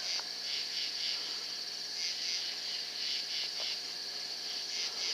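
Night insects such as crickets chirping: a steady high-pitched trill with a pulsing chirp repeating about three times a second.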